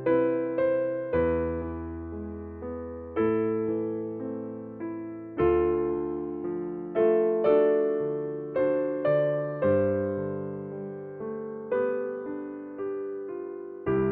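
Slow, gentle piano or electric piano music: sustained chords with notes struck every second or so and left to fade.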